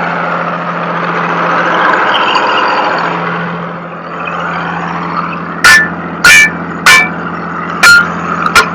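A vehicle engine runs with a steady low hum under a broad noise that swells and then fades. In the second half come a series of short, loud, sharp knocks, some with a brief metallic ring.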